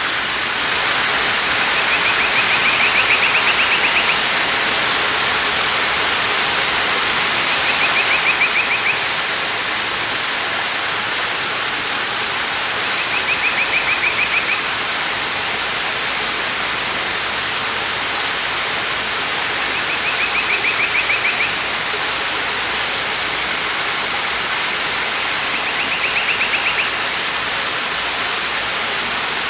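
Waterfall: a steady rush of falling water. A short rapid trill repeats five times, about every six seconds.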